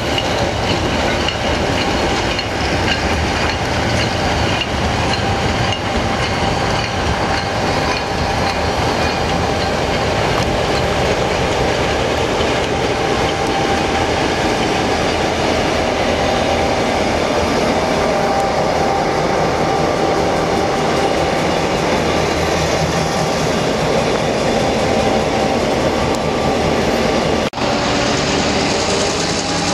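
Train running along the track behind a GM/Nohab diesel locomotive, wheels clicking over rail joints over a steady rumble. It breaks off abruptly near the end.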